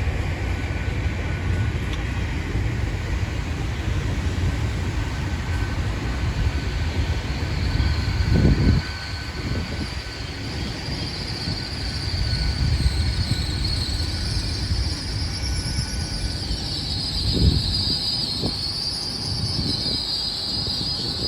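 Passenger trains at a station platform: a steady low engine rumble, and from just past halfway a high, wavering wheel squeal that grows louder. There is a sharp knock at about eight seconds and another at about seventeen.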